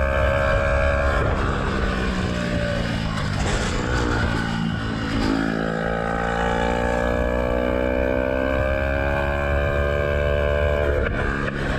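Yamaha YZF-R125's single-cylinder four-stroke engine running through a Black Widow exhaust with the dB killer removed, pulling through the gears. The pitch drops at a shift about a second in, then climbs steadily from about halfway, with another brief dip near the end. A low wind rumble sits underneath.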